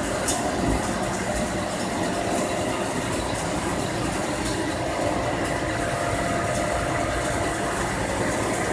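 Steady hum of running machinery in a motor yacht's engine room, with several faint steady tones over an even rumble.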